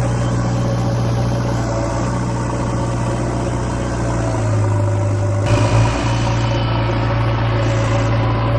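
A steady, engine-like motor hum at a constant low pitch, briefly broken about five and a half seconds in.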